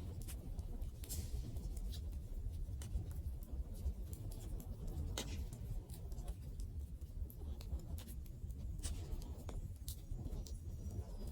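Wood fire crackling, with sharp pops at irregular intervals over a low steady rumble of the flames.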